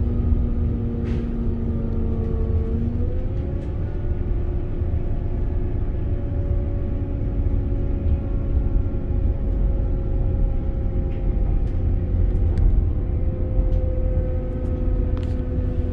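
Inside the saloon of a Northern Class 195 diesel multiple unit under way: a steady low rumble of the wheels on the track and the underfloor diesel engine and transmission. A steady hum runs through it, its pitch stepping up about three seconds in, with a few faint clicks.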